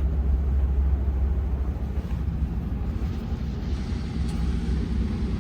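Blue Bird Vision school bus with a Ford 7.3-litre gasoline V8, running steadily: a low engine and road rumble heard from inside the bus, easing slightly about two seconds in.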